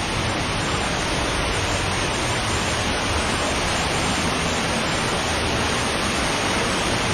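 Steady rush of fast-flowing water from an underground stream, running high.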